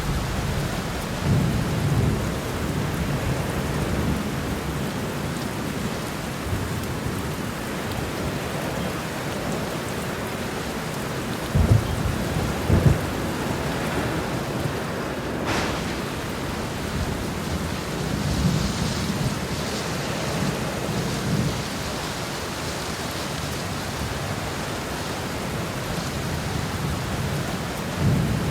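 Steady heavy rain under a thunderstorm, with thunder rumbling low several times and one sharp crack about halfway through.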